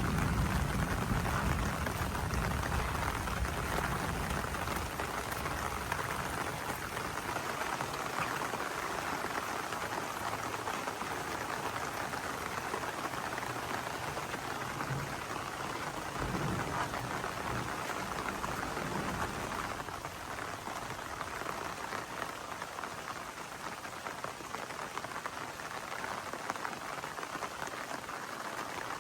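Heavy rain falling steadily, with a low thunder rumble dying away in the first couple of seconds.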